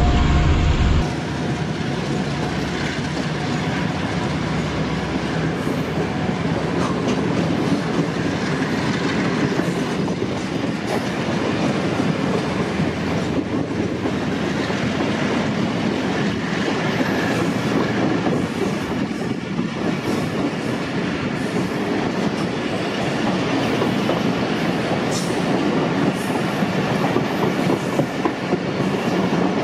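Passenger coaches of an express train rolling past, a steady rumble with wheels clicking over the rail joints. A deeper locomotive rumble drops away abruptly about a second in.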